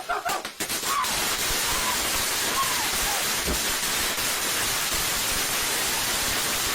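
A lit firework spraying sparks with a loud, steady hiss, after a few sharp clicks at the start.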